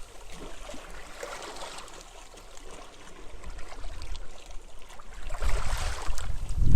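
Waves washing onto a beach in the wind. Near the end a gust builds and rumbles on the microphone.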